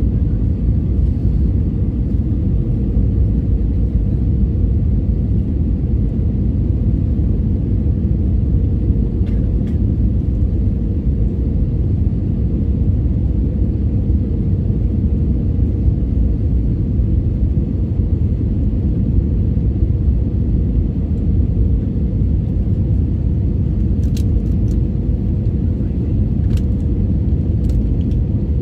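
Jet airliner cabin noise: a steady low rumble of engines and airflow with an even hum running through it, and a few faint clicks near the end.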